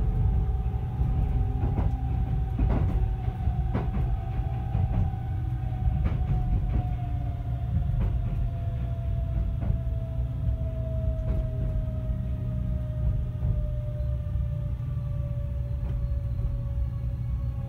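Kintetsu 23000-series electric train heard from inside the passenger car as it slows, with the rumble of the running gear and scattered clicks over rail joints. A single whine from the Mitsubishi GTO-inverter-driven traction motors falls slowly in pitch as the train slows toward a station.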